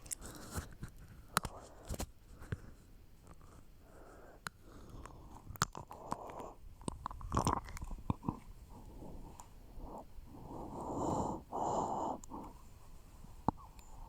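Soft rustling and scattered clicks of a small fabric blouse being folded and handled close to the phone's microphone, in irregular bursts, the longest about ten seconds in.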